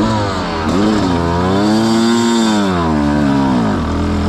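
Dirt bike engine revving up and down as it is ridden. The pitch climbs and falls over a couple of seconds, then drops back near the end before picking up again.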